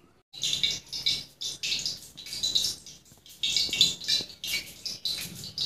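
Small birds chirping in quick, repeated high-pitched bursts.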